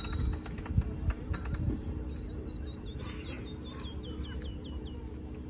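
A few sharp clicks and taps of items being handled on a coffee cart, then a small bird calling a quick run of about eight short falling chirps.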